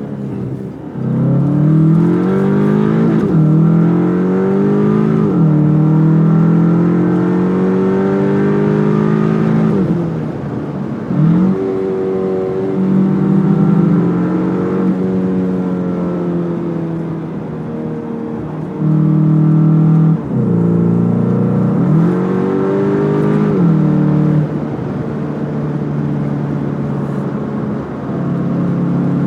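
Cupra Formentor VZ's turbocharged 2.0-litre four-cylinder engine, with its stock exhaust, pulling hard through the gears. The note climbs and drops sharply at each upshift, again and again, with a lighter, steadier stretch in the middle.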